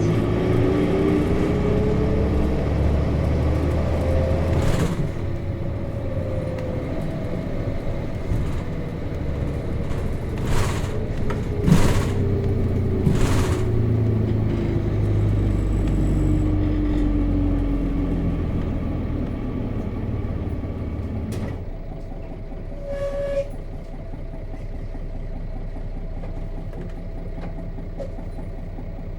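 Nissan Diesel KC-RM211GSN bus's FE6 six-cylinder diesel heard from inside the cabin: the engine pulls with rising pitch for about five seconds, then winds down slowly as the bus slows, with a few knocks and rattles along the way. About three quarters of the way through, it drops to a steady idle.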